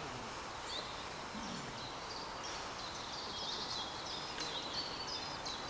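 Outdoor ambience with a small bird singing short, high chirping notes that come thick and fast from about two seconds in, over a steady background hiss.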